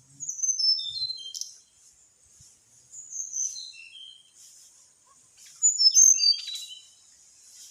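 A small songbird singing three short phrases of clear, high whistled notes, each phrase stepping down in pitch, the last one the loudest.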